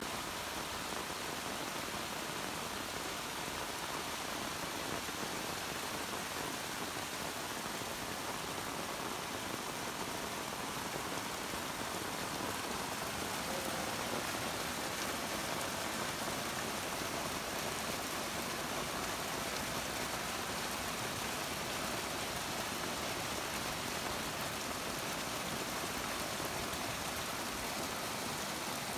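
Heavy tropical rain falling steadily, with runoff water pouring over a kerb edge into a drain close by.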